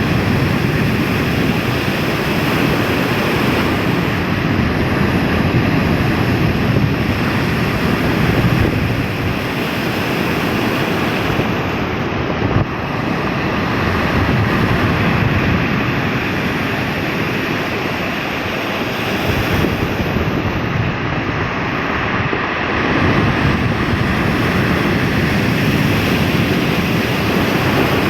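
Ocean waves breaking on the shore in a continuous wash that swells and eases, with wind buffeting the microphone.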